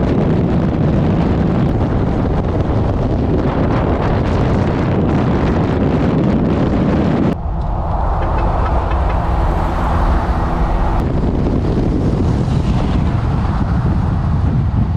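Car driving at road speed, with heavy wind buffeting the microphone. A little past the middle it cuts abruptly to a smoother, steadier engine-and-road drone for about four seconds, then back to the wind-blown driving noise.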